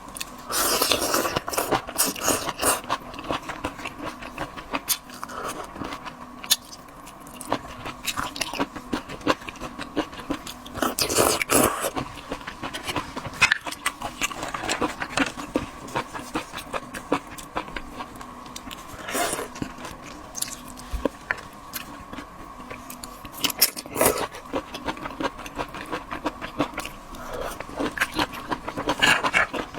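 Close-up eating of seafood: chewing, crunching and scraping of shells, in repeated bursts of clicks and crackles over a faint steady hum.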